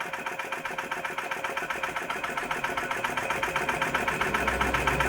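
Small flame licker (vacuum) engine running with a fast, even mechanical clatter, growing a little louder towards the end. It is on its first run, running but not yet adjusted right to its owner's satisfaction.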